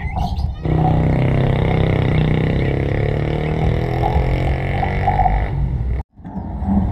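A motor engine running steadily with a low drone, its pitch sinking slightly; it cuts off abruptly near the end.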